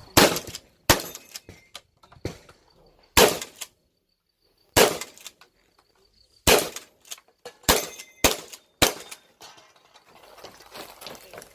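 Shotgun fired about eight times in an IPSC shotgun stage, in uneven strings with pauses of up to a second and a half, each shot ringing out briefly. Fainter clicks and clanks fall between the shots.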